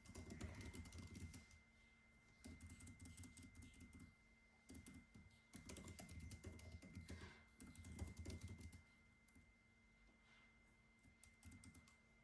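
Typing on a computer keyboard, faint: several runs of quick keystrokes a second or so long with short pauses between, thinning to a few scattered keys near the end.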